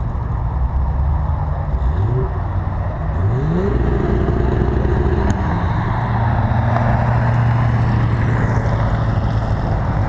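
Car engines: one revs up twice in quick succession, then engines run steadily at raised revs.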